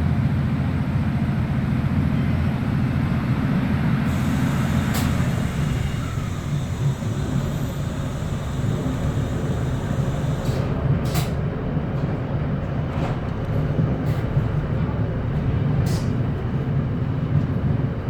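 Class 156 diesel multiple unit's underfloor Cummins diesel engine running under way, a steady low rumble heard from inside the carriage. A few sharp clicks or knocks cut through now and then, about five times.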